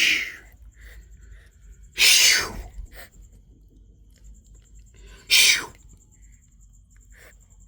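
Kitten hissing in three short, sharp bursts: one at the start, one about two seconds in and one about five seconds in.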